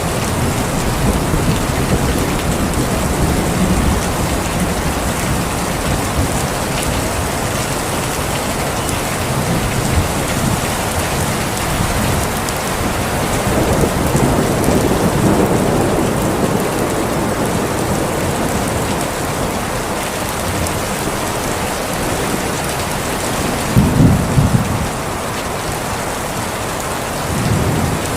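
Steady heavy rain with rolling thunder: low rumbles swell and fade several times, with a short, louder clap about three-quarters of the way through.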